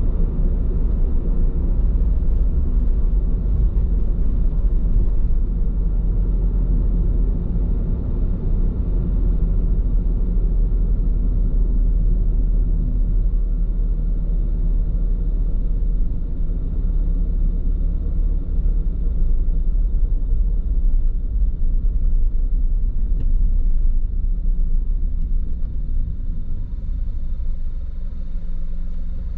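Steady low road rumble from a car's tyres on asphalt, heard inside the moving car's cabin, on Bridgestone Regno tyres. It eases slightly near the end.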